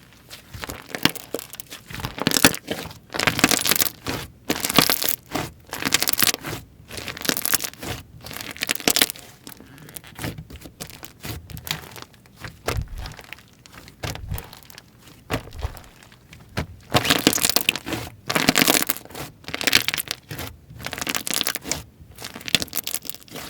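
Hands squeezing, pressing and stretching slime, giving irregular squishing bursts about once or twice a second, some of them loud and sharp.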